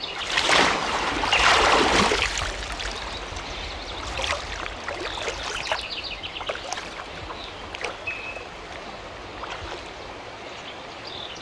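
Water splashing as a person is plunged under and lifted out of a river in a baptism by immersion, loudest in the first two seconds, then water sloshing and dripping. Birds chirp over it.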